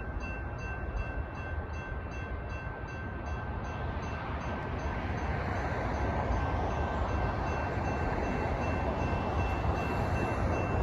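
Railroad crossing warning bell ringing steadily, while a light rail train's rumble grows louder from about four seconds in as the train approaches the crossing.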